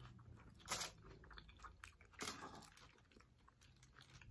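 Faint close-up chewing of a mouthful of beef nachos, with two louder bursts of chewing about a second in and a little after two seconds.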